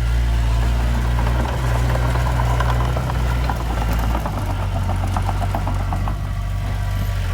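Heavy diesel engine of earthmoving machinery running steadily, with a rapid metallic clatter in the middle. About four seconds in, the engine note drops to a lower pitch.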